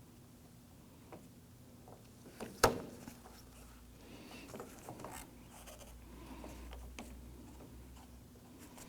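Light handling noises of a door handle reinforcement bracket being slid and lined up inside a car door: rubbing and small taps, with one sharp click about two and a half seconds in.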